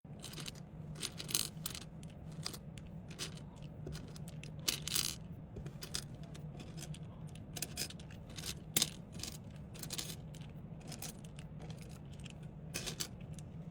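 Small items and their packaging being handled during packing: irregular light clicks, clinks and rustles over a steady low hum.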